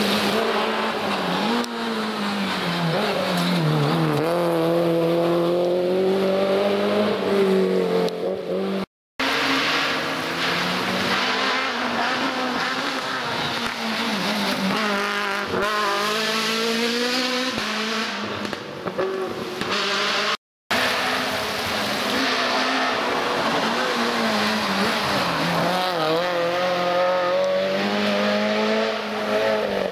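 Rally cars racing on a stage, their engines revving hard, with the pitch climbing and dropping through gear changes and lifts off the throttle. There are three separate passes, each ending in a brief dropout to silence.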